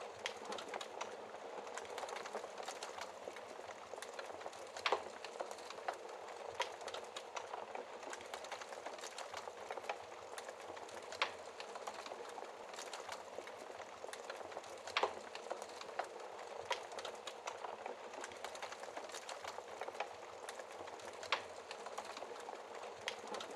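Wood fire crackling in a fireplace: a steady hiss with irregular sharp pops and snaps, a few louder ones scattered through.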